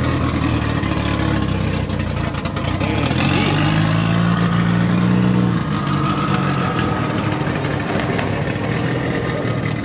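Car engine running loudly, swelling for a couple of seconds around the middle and easing back after about six seconds.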